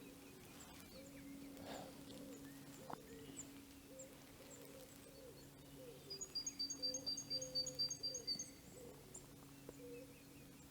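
A small songbird calling a rapid, even series of about a dozen short high-pitched notes for a couple of seconds, about six seconds in, over a steady low hum.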